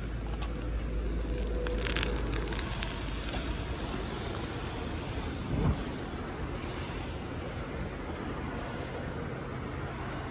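Butter sizzling and spitting in a hot pan over the fire, a steady hiss that swells sharply about two seconds in and again near seven seconds.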